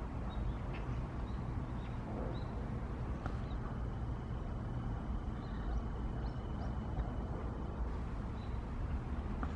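Outdoor park ambience: a steady low rumble with a few faint, short bird chirps, and a thin steady whine in the middle stretch.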